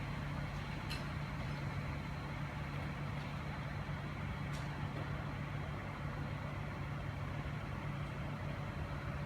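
Steady low hum of a motor or idling engine over outdoor street noise, with a couple of faint clicks about one and four and a half seconds in.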